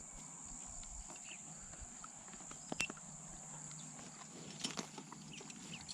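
Faint outdoor ambience: a steady high-pitched cricket drone, with a few scattered sharp clicks, the clearest about three seconds in.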